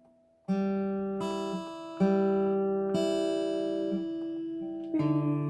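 Acoustic guitar being fingerpicked slowly: single plucked notes and chords starting about once a second, each ringing and fading before the next.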